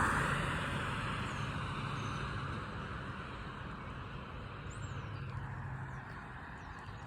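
A car passing on the road and fading into the distance, its tyre noise and engine hum dying away over several seconds.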